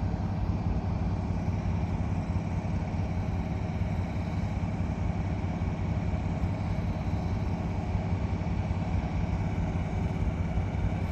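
Diesel locomotive engine idling steadily, a constant low hum.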